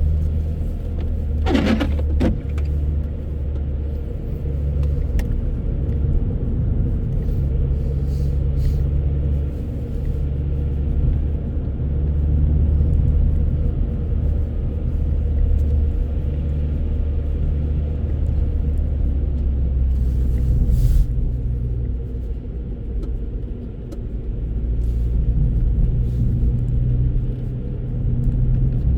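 Steady low rumble of road and engine noise inside a moving car. A short, sharp sound comes about two seconds in.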